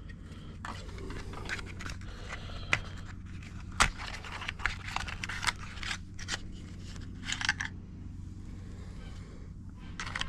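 Scattered metallic clicks and short scraping sounds of hand tools and spark plugs being handled during outboard engine work, with two sharper clicks and a cluster of scrapes in the middle, over a steady low hum.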